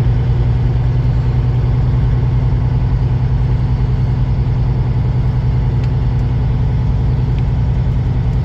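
Semi truck's diesel engine running steadily, a low, even drone.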